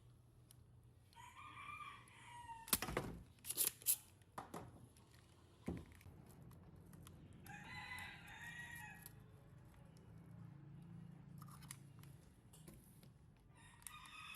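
A chicken calling three times, each call lasting about a second with several seconds between them. A few sharp knocks or clatters come in between, the loudest of them early on.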